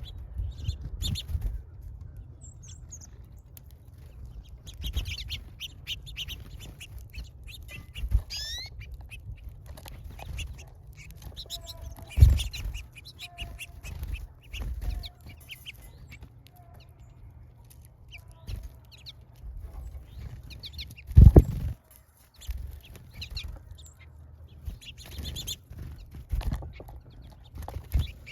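Small birds chirping at a feeder, many short, high, rapid chirps throughout, with a steady low rumble and two loud low thumps, about twelve and twenty-one seconds in.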